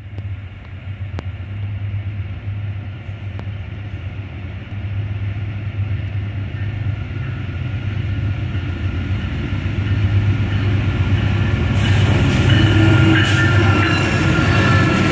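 Amtrak Auto Train's diesel locomotives approaching with a steady low engine hum that grows louder. About twelve seconds in, the lead locomotives pass close by, adding wheel and rail noise.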